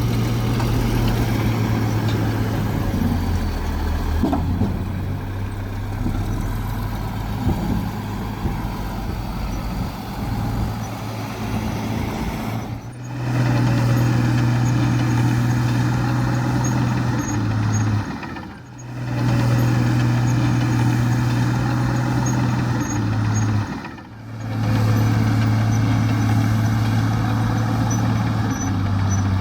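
Heavy diesel engine of earthmoving machinery running steadily under load, with small shifts in engine speed. The sound drops away briefly three times and returns.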